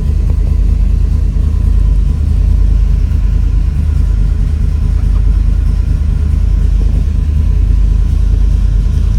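De Tomaso Pantera's Ford V8 running steadily at idle shortly after a cold start, loud and even with no revving.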